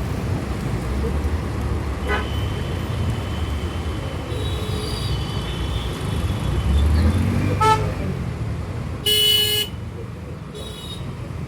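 Low wind and road rumble of riding through city traffic, with vehicle horns honking: a short beep about seven and a half seconds in, a louder half-second honk about a second later, and a brief high beep soon after.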